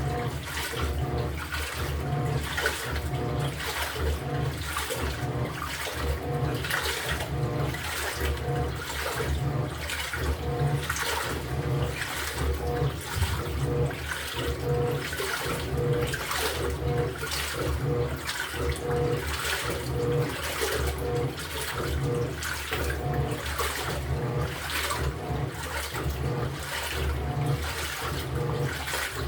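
LG top-loading washing machine's pulsator agitating the load in water, reversing back and forth about once or twice a second. Each stroke brings a pulse of motor hum with a faint whine and a swish of sloshing water.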